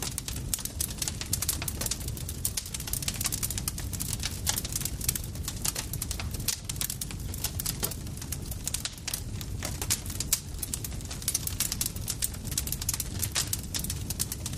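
Campfire crackling: a dense, irregular stream of sharp pops and snaps over a steady low rumble of burning wood.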